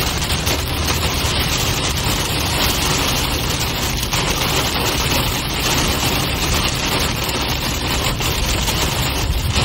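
Heavy rain pelting a moving car's roof and windshield in a steady loud wash, over the low rumble of the car on the highway.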